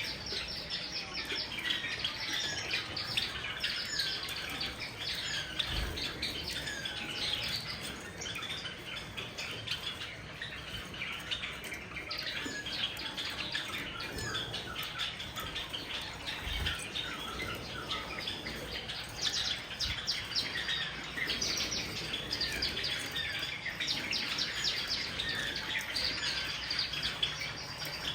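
A flock of Java sparrows chirping nonstop, with many short, overlapping calls.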